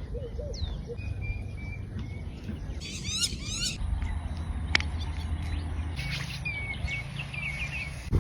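Small birds chirping and whistling, with short repeated notes and a quick run of sweeping calls about three seconds in, over a steady low rumble.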